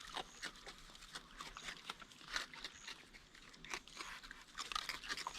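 Raccoons chewing dry Fruit Loops cereal: faint, irregular crunches and clicks.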